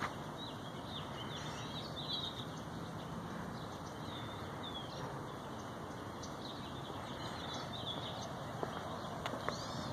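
Small birds chirping in short, quick calls over steady outdoor background noise, with a few sharp ticks near the end.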